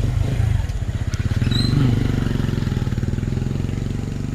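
Small motorcycle engine running close by, a steady low pulsing that peaks about two seconds in and then eases slightly.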